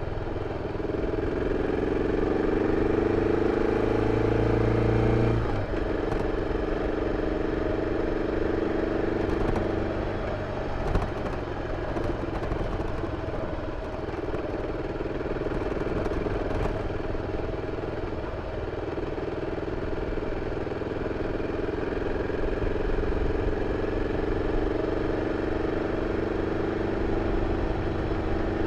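BMW F 650 CS single-cylinder engine running through its stock exhaust while riding. The engine note climbs, drops abruptly about five and a half seconds in, eases off around the middle, then holds steady. A single short knock comes near the middle.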